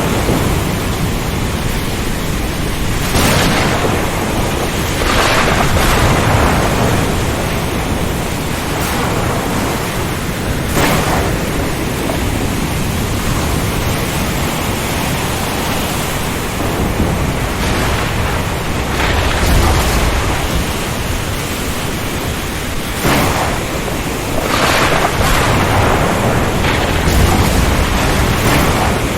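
Ocean storm ambience: a constant rush of strong wind, rain and surf, with a surging swell every few seconds as waves break or gusts hit. There is a deeper low rumble about twenty seconds in.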